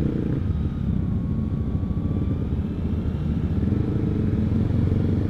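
Single-cylinder Honda CBR150R engine running steadily through an R9 aftermarket exhaust.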